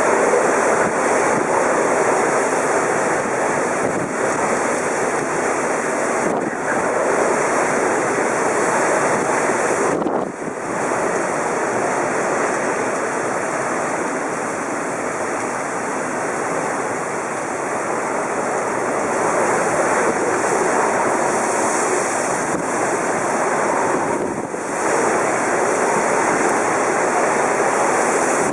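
Typhoon-force wind blowing hard and without let-up, buffeting the microphone, with brief lulls about ten seconds in and again near the end.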